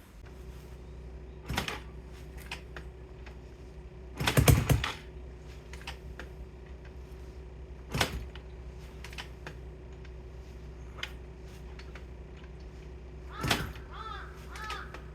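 A few sharp clicks and knocks, the loudest a quick cluster about four seconds in, over a steady low hum; crows start cawing near the end.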